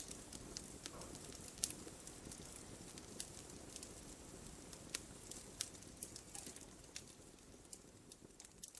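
Wood fire burning in a fireplace: a steady low rush of flame with irregular sharp crackles and pops from the logs, one louder pop about a second and a half in. It grows quieter near the end.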